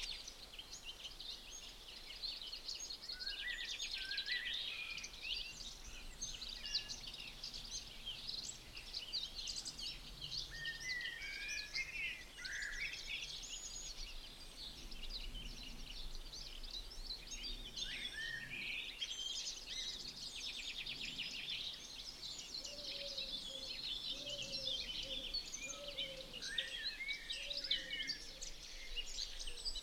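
Several songbirds singing outdoors at once, a dense, continuous chorus of fast trills and short chirps, with a fainter lower call joining in the second half.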